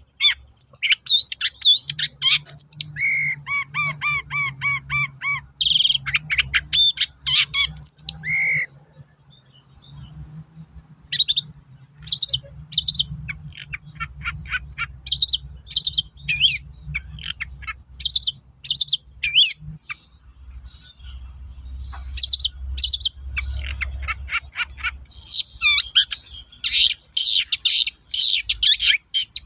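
Long-tailed shrike singing a fast, varied song of chirps, whistles and harsh notes. It includes a run of evenly repeated notes about three seconds in and a short pause near the middle.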